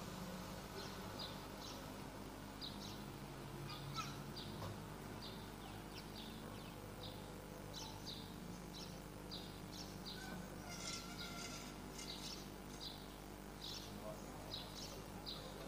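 A small bird chirping over and over: short, high chirps at about two a second, a little denser about two-thirds of the way through, over a steady low hum.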